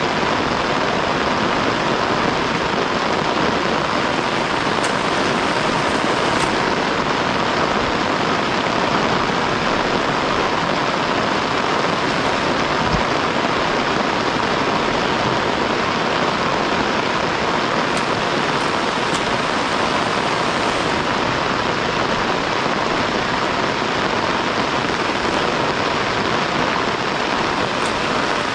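Heavy rain falling steadily, an even hiss with a few faint ticks of drops.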